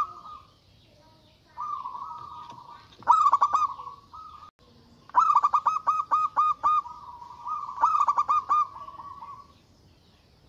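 Zebra dove (perkutut) singing in full voice: about four phrases, each a soft rolling coo that breaks into a quick run of clipped notes. The longest phrase is near the middle, with about seven notes. The song stops about a second before the end.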